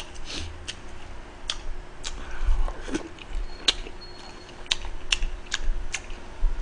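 Close-miked crunchy chewing of fresh geotjeori (napa cabbage kimchi): a string of crisp, irregular crackles.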